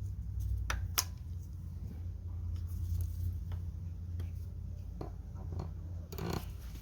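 Scattered small clicks and taps of hand tools and metal parts being handled while working the front brake line loose on a motorcycle, over a steady low hum. The sharpest click comes about a second in, and a few more come near the end.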